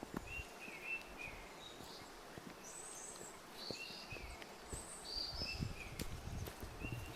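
Small songbirds chirping in short repeated notes, some lower and some higher-pitched, over the soft crunch and thud of footsteps on a forest trail.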